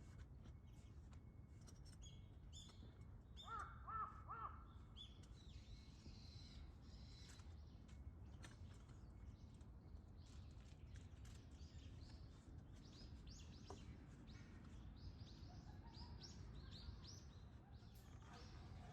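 A crow caws three times in quick succession about four seconds in, while small birds chirp on and off throughout. A faint, steady low rumble runs underneath.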